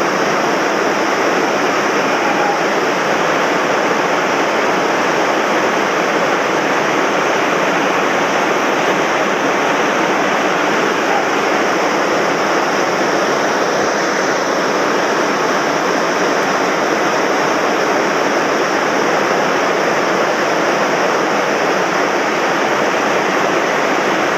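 Swollen mountain stream in spate after heavy rain, its fast current rushing loudly and steadily.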